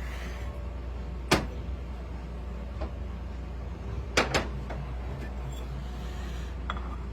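A few sharp metallic clicks and knocks from pistons and the piston skirt gauge being handled, over a steady low hum. The loudest click comes about a second in and a close double click a little after four seconds, with a few fainter ticks between.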